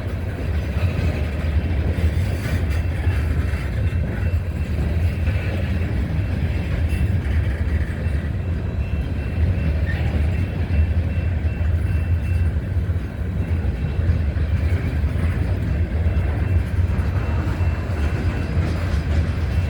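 Freight train cars rolling past with a steady low rumble of wheels on rail.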